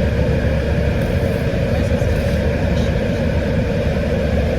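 A car engine idling, heard inside the cabin as a steady low hum.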